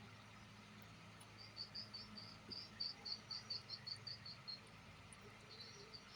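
Faint chirping: a quick run of short high chirps, about four or five a second, starting about a second and a half in and lasting about three seconds, then another short run near the end, over a steady low hum.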